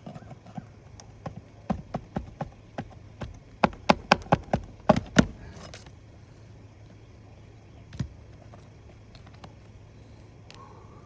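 A hammer striking a shingle ripper (snake tool) to cut roofing nails under an asphalt shingle: a run of sharp knocks, about two to three a second, getting louder toward about five seconds in, then one more knock a few seconds later.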